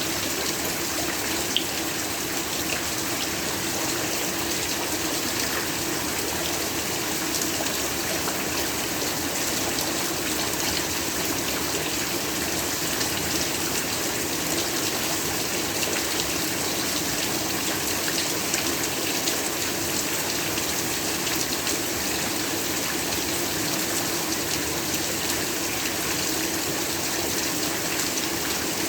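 Steady heavy rainfall, a dense even hiss of many drops with fine ticks of individual drops throughout.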